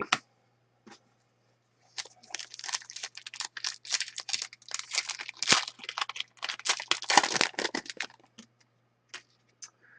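A hockey trading-card pack being torn open, its wrapper crinkling and crackling in the hands for about six seconds before going quiet near the end.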